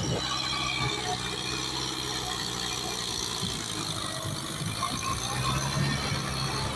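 Kubota tractor's diesel engine running steadily, with a mechanical rattle and a high whine over the engine note.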